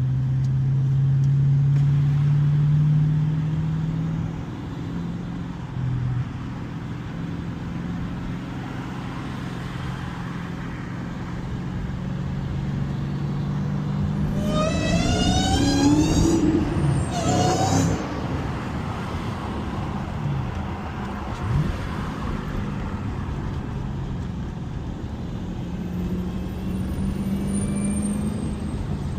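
2015 Dodge Challenger Hellcat's supercharged 6.2-litre HEMI V8 running under way, with its note rising and falling as the car is driven. About halfway through the engine revs up hard twice in quick succession, with a brief break between the two pulls, then settles back to a steady cruise and climbs again near the end.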